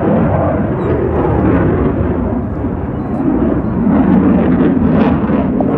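Jet aircraft engine noise from an air show pass: a loud, continuous rumbling roar.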